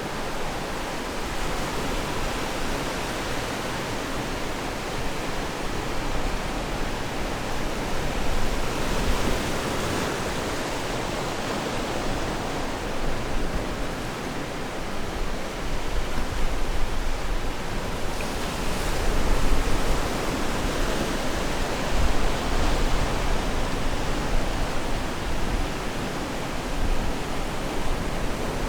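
Ocean waves washing onto the shore: a continuous rush of surf that swells and eases every few seconds.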